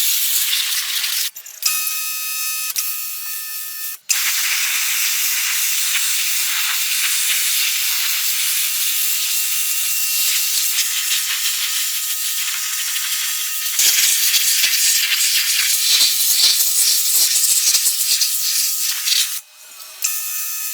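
Steady, loud hiss of spraying or blasting air in several cut segments, with a short stretch of machine whine about two seconds in.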